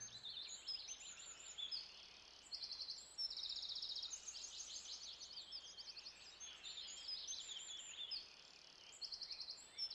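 Small birds singing faintly: quick high chirps and rapid trills, several overlapping, with short lulls about two and eight seconds in.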